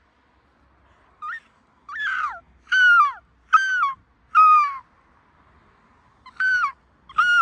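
Seagulls calling over and over: a run of about seven short cries, each sliding down in pitch, with a gap of about a second and a half in the middle.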